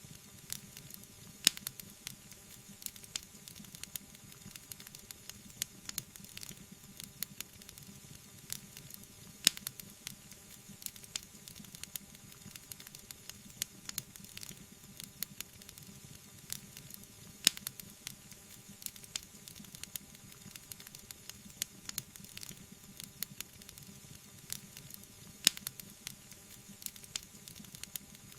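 Wood fire burning: a steady soft hiss with frequent sharp crackles, and a few loud pops standing out, about every eight seconds.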